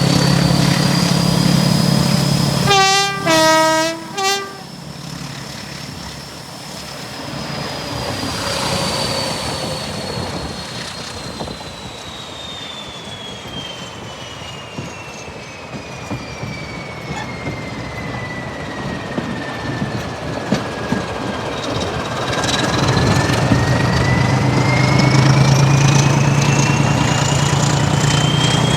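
Class 14 diesel-hydraulic locomotive D9526 sounding its two-tone horn briefly about three seconds in and moving off. Its engine runs under a long high whine that slowly falls in pitch, then rises again as the engine grows louder near the end.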